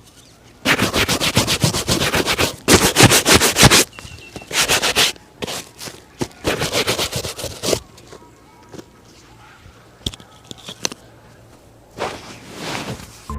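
Vigorous shoe shining: four runs of rapid back-and-forth strokes of a brush or buffing cloth on a leather shoe. These are followed by a few scattered taps and one last swish.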